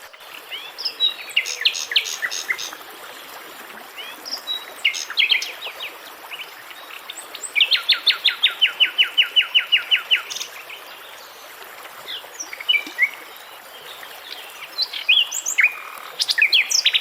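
Songbirds singing: scattered chirps and short falling whistles, with a fast even trill of about six notes a second for roughly three seconds around the middle, over a steady hiss of running water.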